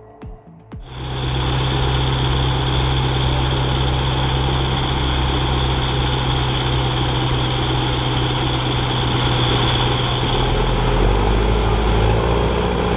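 Heavy diesel engine running steadily at a constant speed, starting about a second in; a deeper rumble joins it near the end.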